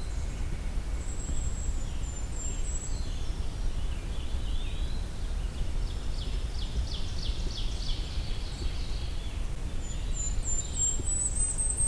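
Golden-crowned kinglet singing: a long string of very high, thin notes near the end that tumbles down at the close, with a few similar high notes early on. Lower bird chirps come in between, over a steady low background rumble.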